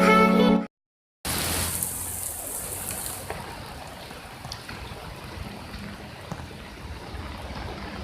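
Rushing water of the Lembah Anai waterfall running in flood, swollen by heavy rain: an even hiss that starts abruptly about a second in after a short tune stops, brighter for the first couple of seconds, then steady.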